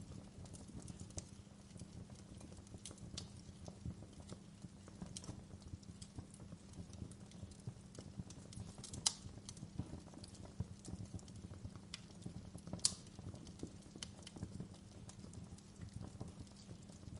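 Wood fire in a fireplace crackling: irregular snaps and pops over a low, steady rumble of the flames, with two louder pops about nine and thirteen seconds in.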